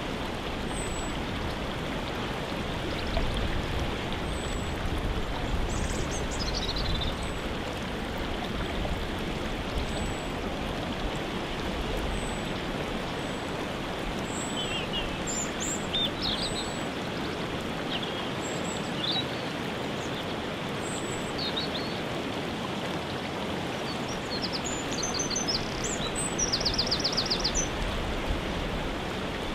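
Steady rush of a waterfall, with scattered short bird calls and chirps over it; near the end one bird gives a fast run of repeated notes.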